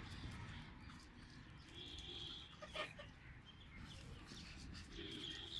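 Young chickens peeping faintly, with two drawn-out high peeps, one about two seconds in and one near the end, and a short click about halfway through.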